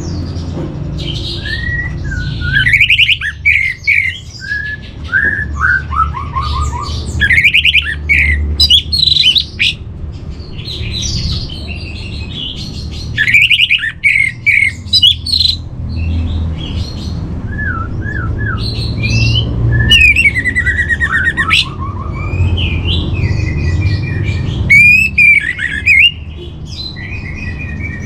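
Orange-headed thrush (anis merah) singing a varied song of short whistled, sweeping and trilled phrases in quick succession, over a steady low rumble.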